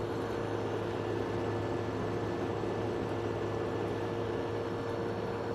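1971 Sears Coldspot window air conditioner running: a steady hum from the compressor under the rush of the fan's air. It is cooling properly, its evaporator coil ice cold.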